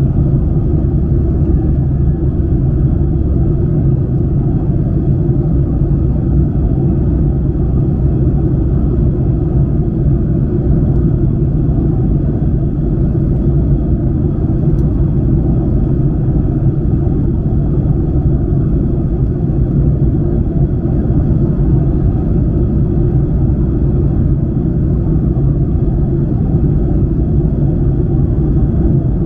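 Steady, loud low rumble of cabin noise inside a Boeing 737-900ER, its CFM56-7B engines and the air around the fuselage running at a constant level, with a faint thin whine above it.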